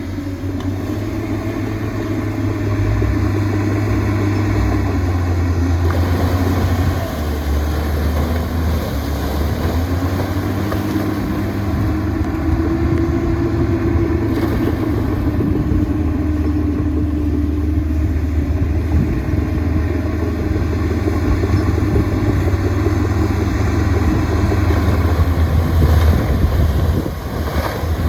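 Diesel engine of heavy earthmoving machinery running steadily under load, its pitch rising and falling as the engine speed changes.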